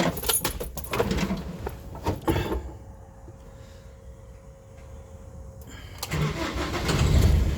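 A few knocks and clatters, then a faint steady whine, then the Iveco Daily van's engine cranks and starts about six seconds in and runs on.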